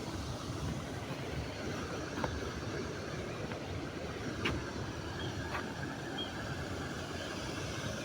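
Small waterfall rushing steadily, an even noise heaviest in the low end, with a few faint clicks.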